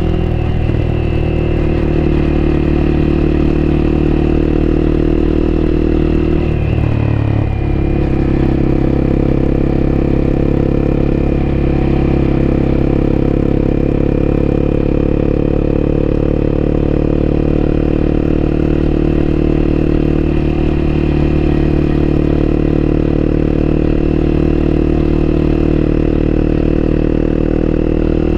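Honda CBR250R's single-cylinder engine running at steady revs, heard from on board the motorcycle. About seven seconds in, the engine note briefly dips and changes before settling back to a steady pitch.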